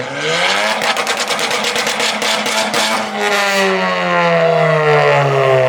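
A tuned engine revving up against a two-step launch limiter, the limiter cutting in as a rapid string of exhaust pops for a couple of seconds. After that the engine note holds and slowly sags in pitch.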